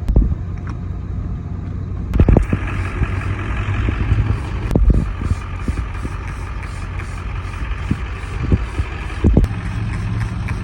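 A truck's engine idling steadily, with a few dull thumps. About two seconds in, a steady hiss starts over it and keeps on.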